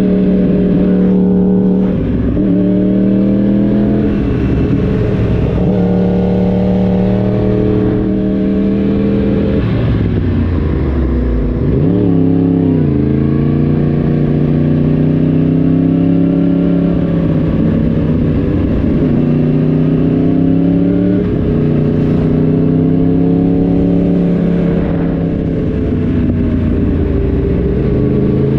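Yamaha YZF-R1 crossplane inline-four running under way with the exhaust loud, its pitch stepping up and down with throttle and gear changes. About ten seconds in the note drops steeply as the throttle closes, then climbs again as it pulls away.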